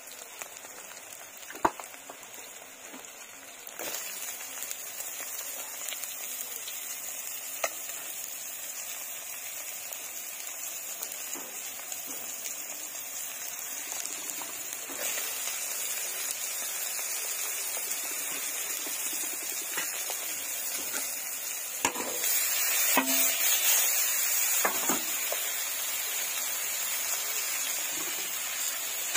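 Onion and green chillies sizzling in hot oil in a metal wok. The sizzle gets louder in steps, about four seconds in and twice more later, as cut eggplant pieces go into the oil. A few sharp clicks sound against the pan.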